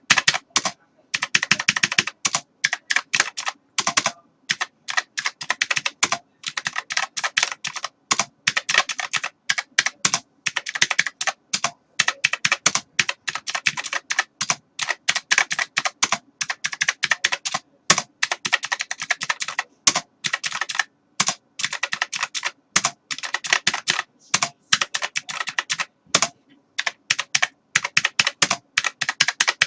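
Computer keyboard typing: rapid, uneven key clicks in quick runs with short pauses.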